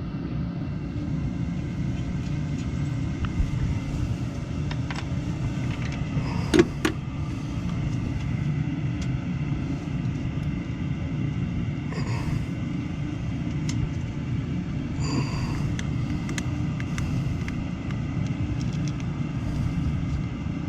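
Steady low rumble of a running water heater, with a faint steady whine above it. A few sharp clicks and taps stand out, the loudest about six and a half seconds in.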